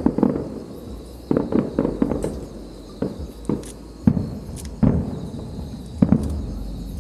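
Aerial fireworks shells bursting overhead: an irregular string of about a dozen sharp bangs, some in quick pairs, over a low rumble.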